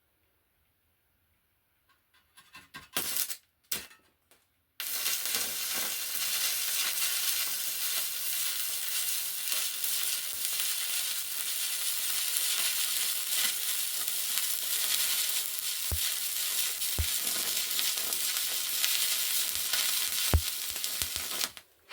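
Stick (arc) welding with a stainless-steel electrode: a steady crackling hiss that starts abruptly about five seconds in, after a few short scratches and clicks as the arc is struck, and cuts off just before the end.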